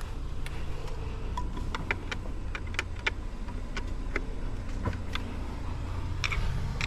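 Irregular light metallic clicks and taps, about fifteen, from a screwdriver and mounting hardware being handled while a floodlight is fastened to its mount, over a steady low rumble.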